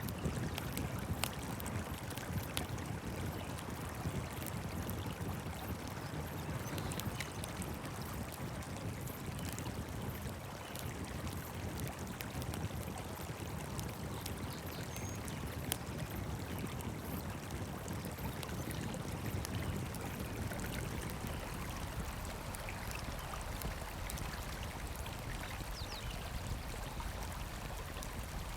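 Campfire burning: a steady hiss and low rumble with frequent small crackles and pops scattered throughout.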